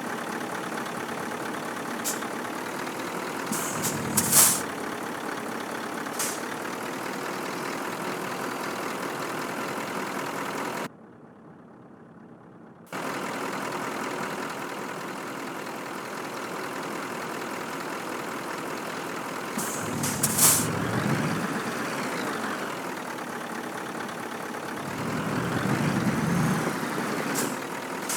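Scania truck's diesel engine running at low speed, with short hisses of released air from the air brakes, about 4 seconds in and again about 20 seconds in. The sound drops out for about two seconds in the middle, and the engine swells briefly near the end.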